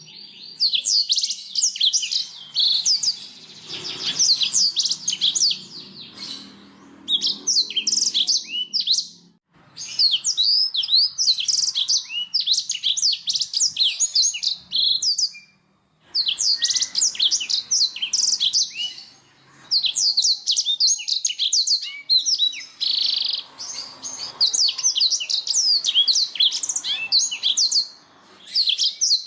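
Canary singing: long phrases of quick, high trilled notes, broken by short pauses about three times.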